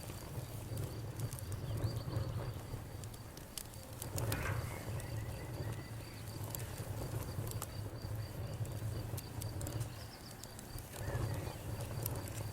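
Wood campfire crackling, with irregular sharp pops and snaps over a low steady rumble. A faint, high, evenly pulsing chirp runs underneath.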